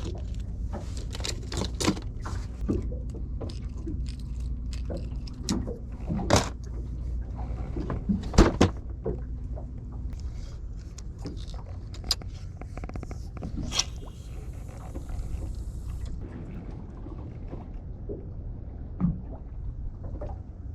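Steady low drone of a fishing boat's engine, with scattered knocks and clicks of gear on deck. The loudest knocks come about six and eight and a half seconds in.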